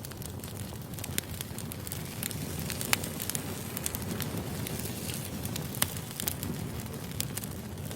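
Firewood burning: a steady low rumble with scattered sharp crackles and pops, the loudest pops about three and six seconds in.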